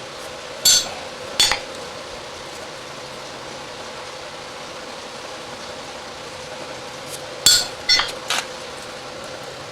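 Light metal clinks of small metal parts being handled or knocked on a hard surface: two about a second in and three in quick succession near the end, over a steady hum.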